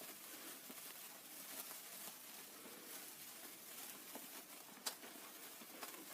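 A hand-held sparkler burning: a faint, steady fizzing hiss with small crackles and a sharper pop a little before the five-second mark.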